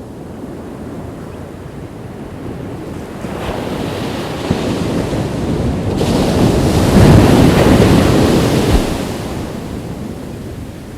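Ocean waves on a beach: the surf swells from about three seconds in, is loudest near the middle as a wave breaks, then washes back down.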